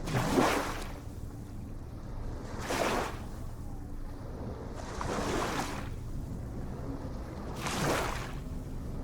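Ocean surf washing in, four rushes of wave noise about every two and a half seconds over a steady low rumble.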